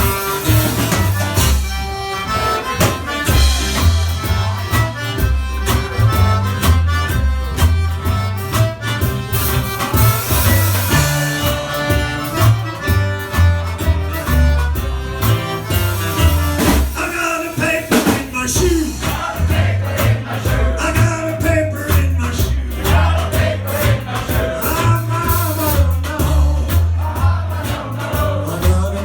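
Live Cajun band playing an up-tempo number, a reedy lead instrument over a steady, pulsing bass beat.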